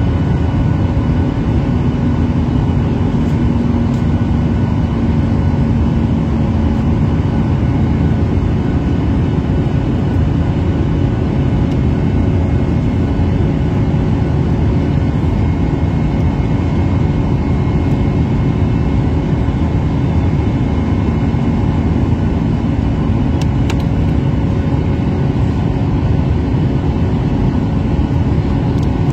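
Steady drone of an airliner's engines and rushing air, heard from inside the passenger cabin, with a few faint steady tones above the low rumble.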